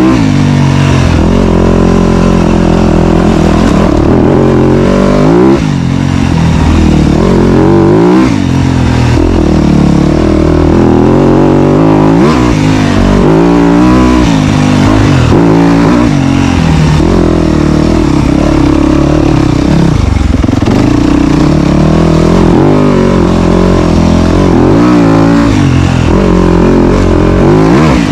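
Dirt bike engine revving up and down again and again as it is ridden over trail, with the pitch rising and falling every second or two under constant throttle changes.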